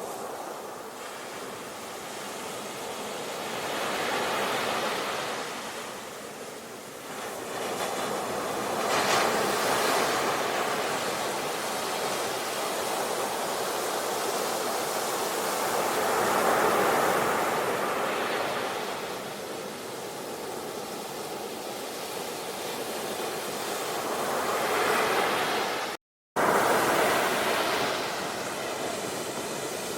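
Ocean waves breaking on a shore, the surf swelling and ebbing every several seconds. Near the end the sound cuts out completely for a split second, then returns.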